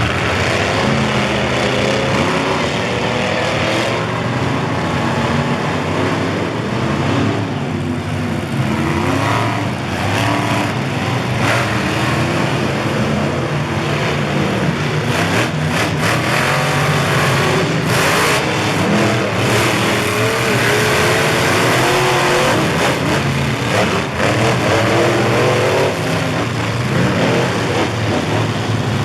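Monster truck engines running loud, the revs rising and falling again and again.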